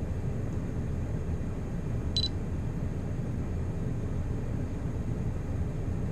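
Wind buffeting the microphone in a steady low rumble. About two seconds in comes one brief, high electronic click.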